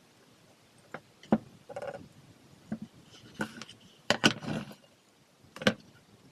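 Handling noises: a string of sharp clicks and knocks with short rattles between them, the loudest a little past four seconds in and near the end.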